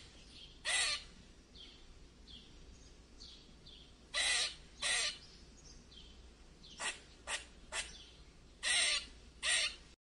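Scarlet macaws giving harsh, grating squawks: about eight loud calls, in ones and twos at uneven gaps, with fainter calls in between.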